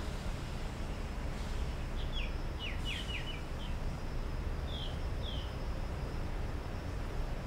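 A small bird chirping: a quick run of short, falling chirps about two seconds in, then two more chirps about five seconds in, over a steady low background rumble.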